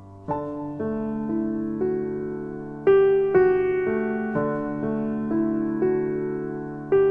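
Background music: a slow piano melody, notes struck about twice a second and fading away, with a stronger accent about three seconds in and again near the end.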